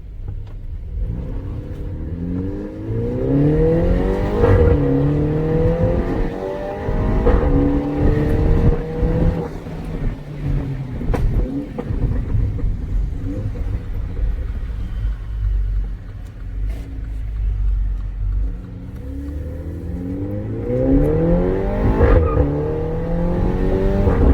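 Mini Cooper engine accelerating hard through the gears in two runs, its pitch climbing and dropping back at each shift, with sharp pops and crackles from the exhaust.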